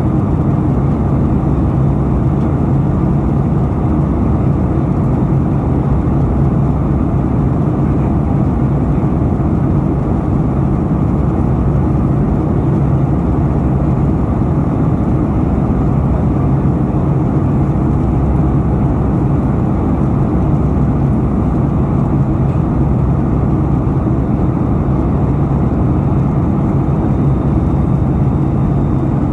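Airliner cabin noise in flight: the steady rumble of the engines and rushing air, with a steady low hum underneath.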